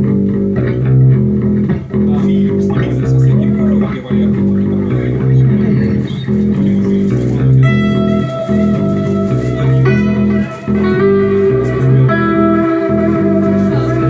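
Guitars playing an instrumental rock passage: a repeating low riff in even strokes, with long held lead-guitar notes coming in over it about eight seconds in.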